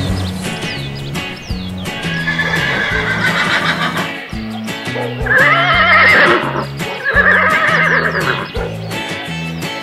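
Horse whinnying, dubbed in as a sound effect: a fainter whinny about two seconds in, then two loud, wavering whinnies in the second half. Background music with a repeating bass line plays under it.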